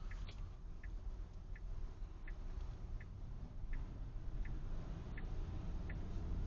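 A car's turn-signal indicator ticking steadily inside the cabin, about three ticks every two seconds, over low road rumble.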